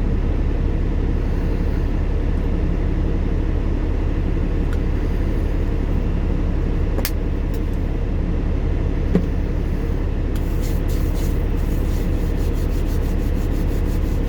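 A semi truck's diesel engine running, a steady low rumble heard from inside the cab, with a single click about halfway and a faint rapid ticking in the last few seconds.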